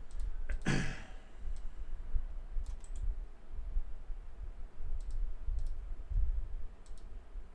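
Trading-card packs and box being handled on a table: scattered light clicks and dull bumps. A short breath-like sound comes just under a second in.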